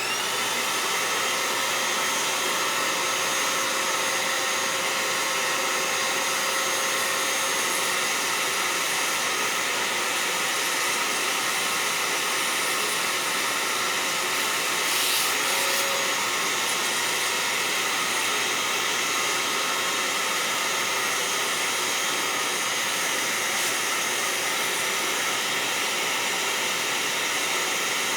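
Electric fan heater switched on and running: a steady rush of blown air with a faint steady hum, starting abruptly from silence.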